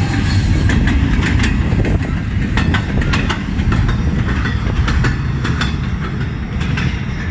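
CN freight train's cars rolling past, with a steady low rumble and wheels clicking over the rail joints several times a second.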